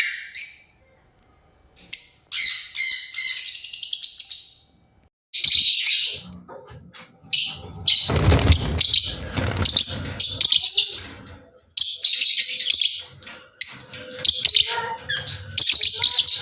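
Lovebirds chirping in repeated high-pitched bursts with short gaps between them. A louder rustling noise runs through the chirps about eight to ten seconds in.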